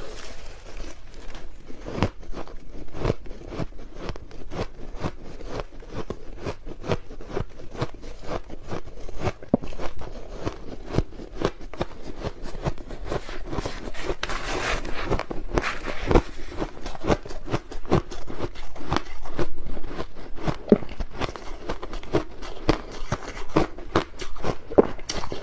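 White crushed ice being bitten and crunched between the teeth close to the microphone: a dense, irregular run of sharp crunches.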